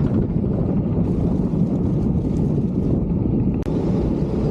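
Loud wind rushing over the microphone on a bicycle coasting downhill at about 50 km/h. A brief dropout comes about three and a half seconds in.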